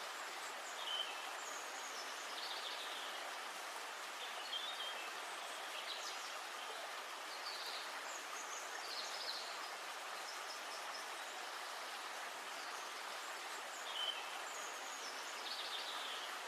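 Songbirds calling in short high chirps and trills every second or two over a steady, even hiss of outdoor ambience.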